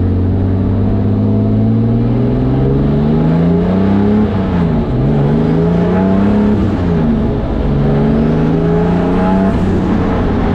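Turbocharged BMW M50 straight-six running under way on a break-in drive of the freshly built engine: its note climbs in pitch, drops back, climbs and drops again, then holds steady.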